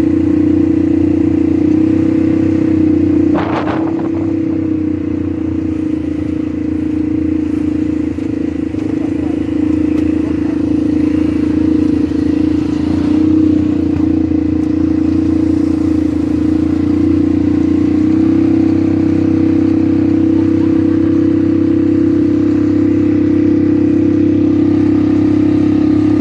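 ATV engine running at a steady pitch as the quad is ridden, with one brief knock about three and a half seconds in.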